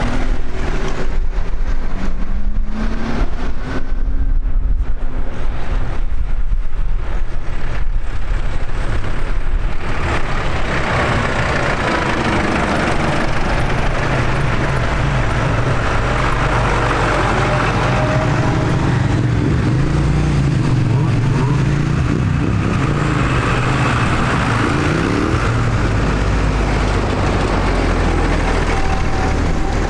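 Tractor engines running steadily, with a low, continuous engine note.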